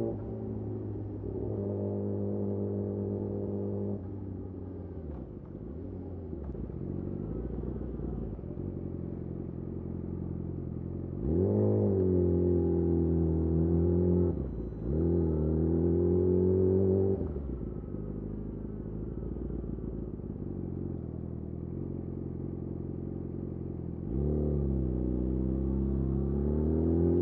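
Yamaha YZF-R6 inline-four with a de-catted Akrapovic slip-on exhaust, running low and steady, then accelerating hard about halfway through. A brief break interrupts the pull, typical of a gear change, before it pulls again. It settles back and pulls up once more near the end.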